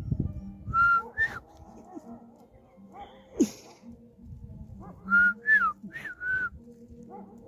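Dog whining in short high-pitched calls: two about a second in, then four quickly in a row around five to six seconds, with one sharper sound in between.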